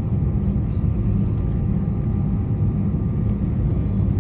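Airbus A320's engines at idle heard inside the cabin: a steady low rumble with a faint steady whine above it.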